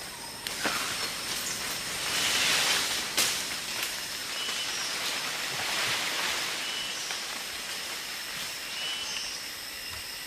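Tropical rainforest ambience: a steady high hiss of insects that swells and fades twice, with faint short chirps repeating over it.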